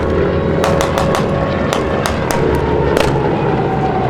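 Aircraft engines making a steady low rumble, with a tone that falls in pitch from about three seconds in as a plane passes. Over it come about ten irregular sharp cracks of simulated gunfire from the show's pyrotechnic and blank-fire effects.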